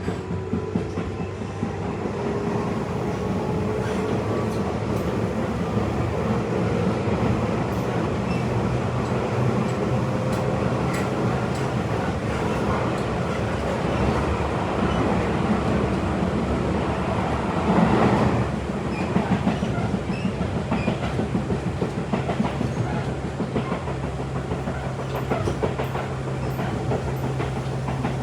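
Tobu 8000-series electric commuter train running at speed, its traction-motor whine rising slowly over the first several seconds, with the steady clickety-clack of wheels over the rails. A brief louder surge comes about eighteen seconds in.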